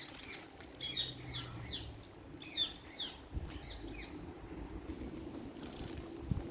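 A small bird chirping a rapid series of short, falling notes for about four seconds, then stopping, with a faint low rumble behind it.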